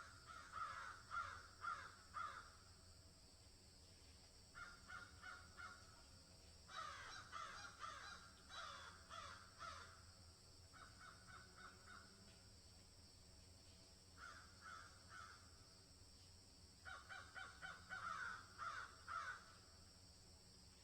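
A bird calling in about six bouts of quick repeated notes, each bout lasting a second or two, over a steady faint hiss.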